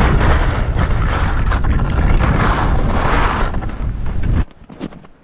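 Wind buffeting the microphone during a ski run, a loud low rumble, with the hiss of skis sliding over icy snow swelling and fading twice. It cuts off suddenly near the end, leaving a few faint clicks.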